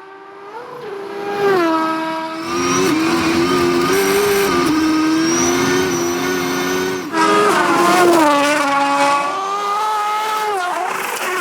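Rally car engine at high revs, growing louder over the first second or so, its pitch rising and dropping with gear changes and throttle lifts. About seven seconds in, the sound switches abruptly to another stretch of hard-revving engine.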